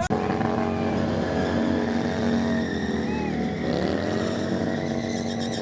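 Motorcycle engines running hard at high revs. The pitch dips about three and a half seconds in, then climbs again.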